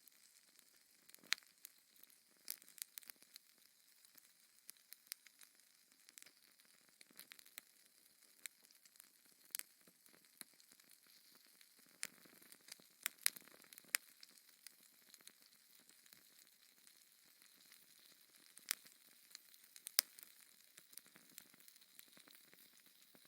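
Wood fire in a fireplace crackling, with irregular sharp pops and snaps over a faint steady hiss.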